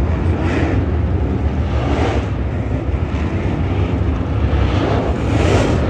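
Dirt-track race cars running: a steady, loud engine rumble that swells three times as cars go past.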